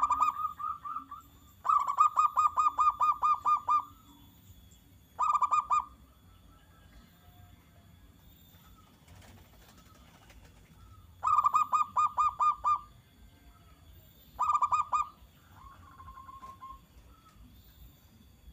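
Zebra dove (perkutut) cooing in quick runs of clipped, pulsed notes, about six a second, in several bursts with pauses between. The longest runs come about two seconds in and again around eleven seconds, with short bursts between them and a faint one near the end.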